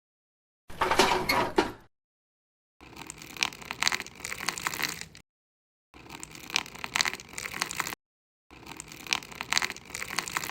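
Four short bursts of crackling and scraping with many small clicks, from hand work on miniature building materials, each broken off by a sudden cut to silence.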